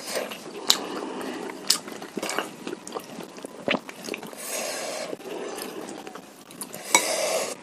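Close-miked chewing and biting of bakso meatballs, wet and squishy, with several sharp clicks along the way.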